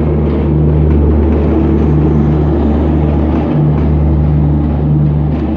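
Diesel train running: a steady low engine drone under a loud rushing noise.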